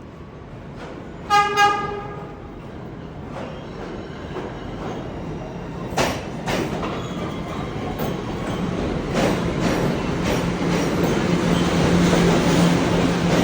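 Subway train giving two short horn toots about a second and a half in, then the train's running noise growing steadily louder, with rail clicks and a low steady hum near the end.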